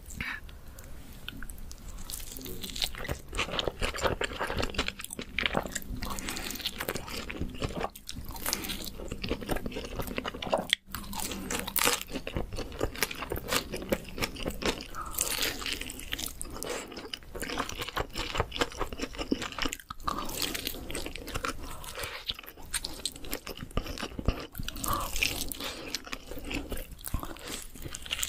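Close-miked eating sounds: crunchy bites and steady chewing of cheese pizza crust.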